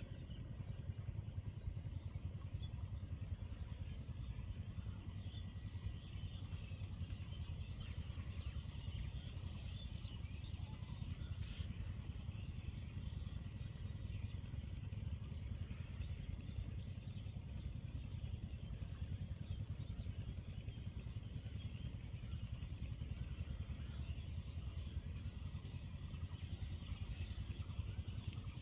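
Outdoor rural ambience: a steady low rumble with faint scattered bird chirps throughout.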